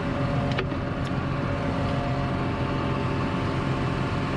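Large farm tractor's diesel engine idling steadily, with a short squeak and a couple of light clicks in the first second or so.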